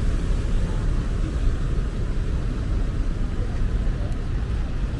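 Steady outdoor city street noise, mostly a low rumble, with no distinct events.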